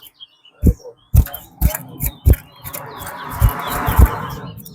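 Faint chirps of a caged towa-towa seed finch between counted songs, over several sharp low thumps. A swelling rush of noise comes in over the second half.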